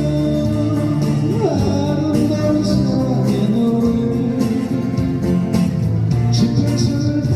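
Live band music with acoustic guitar, a steady beat and a sung or instrumental melody line.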